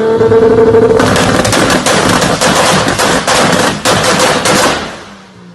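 Toyota Supra's 2JZ straight-six revving up, then breaking into a rapid string of loud exhaust pops and bangs for several seconds before fading out.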